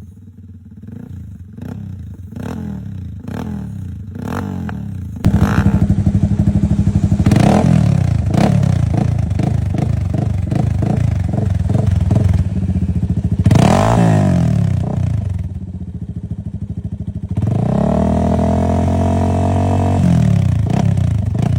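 Yamaha FZ25's single-cylinder engine revved in repeated blips through different aftermarket exhausts, with abrupt changes between clips: a quieter exhaust first, a much louder one from about five seconds in, and another near the end held in a longer rev.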